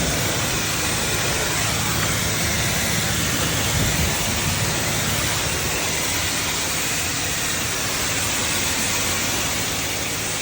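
A self-serve car wash's high-pressure wand spraying water, a steady hiss with a low pump hum beneath.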